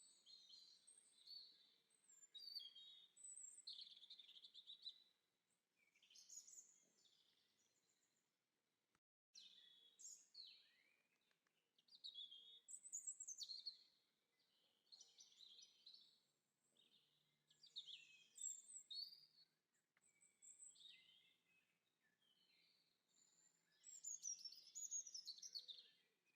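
Faint songbird song: short, high, warbling and chirping phrases repeated every second or two, with a brief break about nine seconds in.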